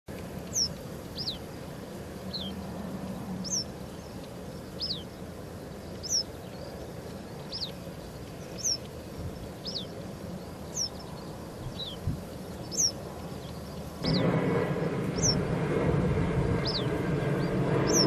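A bird calling outdoors: thin, high, downward-slurred single notes repeated about once a second. About fourteen seconds in, a louder steady rushing noise comes up underneath.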